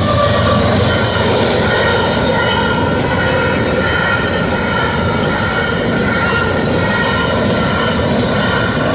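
A freight train rolling past at close range: steady rumble of the cars on the rails with a held high-pitched wheel squeal over it.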